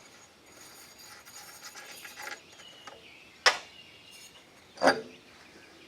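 A lawn mower's air filter cover and filter being taken off by hand: light rustling and scraping, then two sharp clacks about a second and a half apart.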